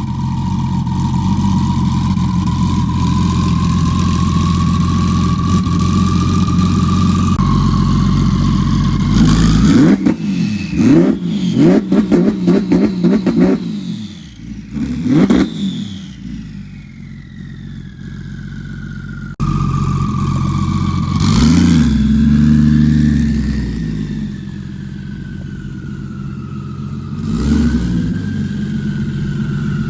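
Twin-turbocharged Porsche 911 GT3 RS flat-six running at a steady idle, then blipped through a rapid string of sharp revs, with several more single revs later that fall away in pitch.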